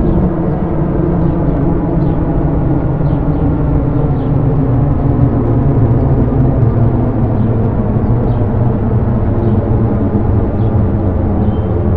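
A loud, steady low rumble with held droning tones layered over it, an ominous ambient drone.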